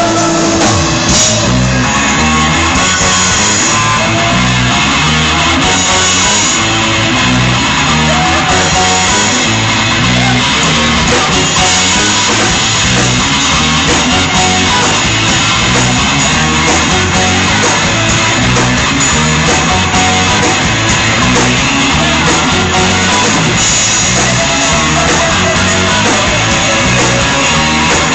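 Live rock band playing loud, with electric guitar out front over bass and drums, recorded through a mobile phone's microphone so the sound is cut off in the highs.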